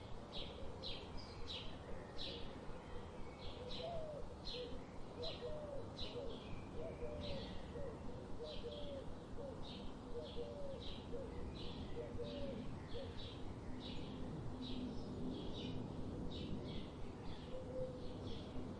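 Birds chirping in a steady outdoor ambience: a short high chirp repeated about twice a second throughout, with a run of lower, short rising-and-falling notes through the middle.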